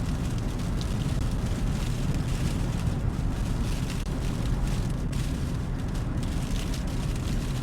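Steady low rumble of a car driving on a snow-covered highway, heard from inside the cabin: tyre and road noise mixed with wind.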